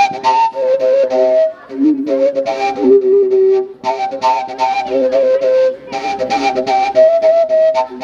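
Live music: a flute-like wind instrument plays a moving melody over a steady percussive beat, in a techno-style arrangement.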